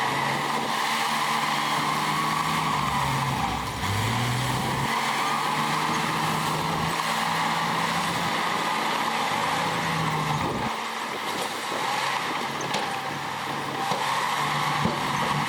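Heavy diesel engine of earthmoving machinery running steadily. Its pitch dips and comes back up about four seconds in, and it eases off near eleven seconds before picking up again near the end.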